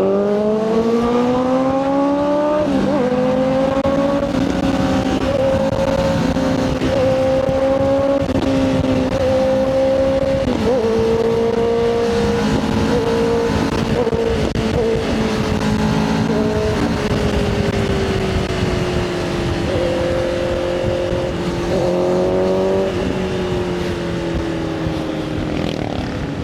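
Motorcycle engine under way, revs climbing in the first few seconds and dropping at a gear change about three seconds in, then holding steady cruising revs with small dips, with a second short climb and shift a few seconds before the end. Wind rushes over the microphone throughout.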